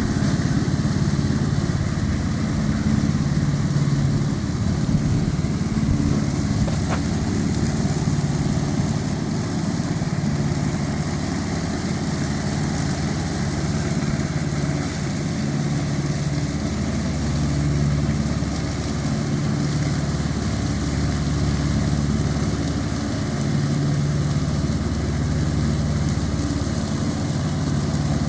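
Tractor engine running steadily, its low drone swelling and easing every few seconds.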